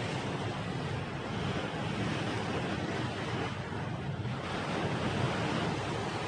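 Sea surf washing onto the shore in slow surges, with wind rumbling on the microphone.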